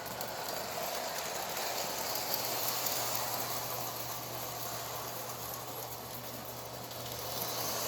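Electric toy train set running along its track: a steady whir of the small motor and wheels that swells a little in the middle and again near the end.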